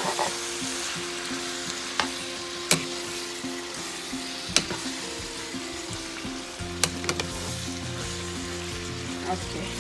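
Shredded salt cod with sweet peppers and tomato frying in a nonstick skillet with a steady sizzle while a metal spoon stirs it, with a handful of sharp clicks as the spoon knocks against the pan.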